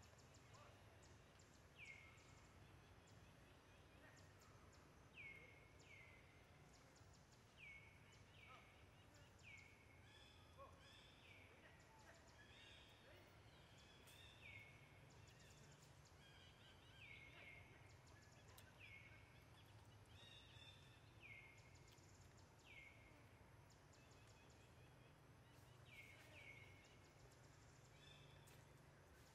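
Faint, repeated bird call: short high notes, each falling quickly, about every one to two seconds, over a low steady background hum.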